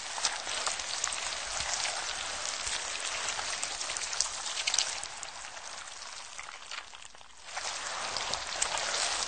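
Dense, steady pattering like rain falling on a surface, easing briefly about seven seconds in and then picking up again.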